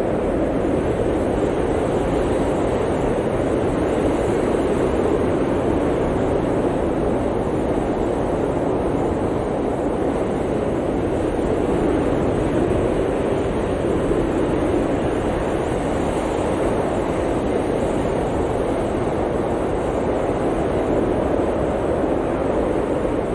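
Blizzard wind blowing hard and steadily: a dense, even rush of noise with no gusts, breaks or distinct events.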